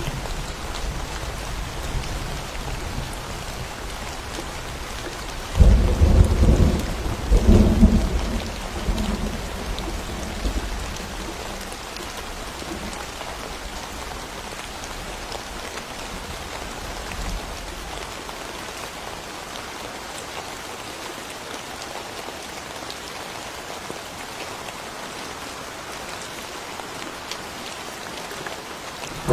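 Thunderstorm: steady rain falling, with a loud thunderclap about six seconds in that rumbles in two strong peaks and fades out over a few seconds.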